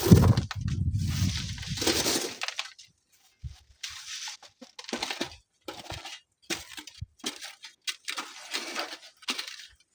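Strong wind buffeting the microphone with a loud low rumble that dies away about two seconds in, followed by short, broken bursts of crackling, hissing noise.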